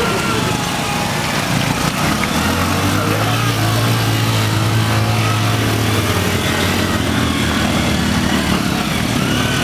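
Small boda boda motorcycle engine running steadily, its low drone strongest in the middle stretch.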